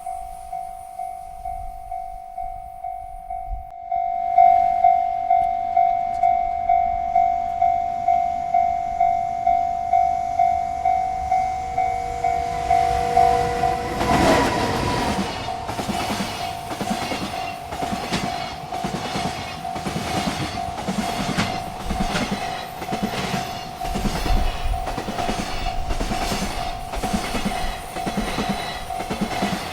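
A railroad crossing bell rings at about two strikes a second and grows louder about four seconds in. About fourteen seconds in, a freight train arrives and passes, its wheels rumbling and clattering rhythmically over the rail joints while the bell keeps ringing.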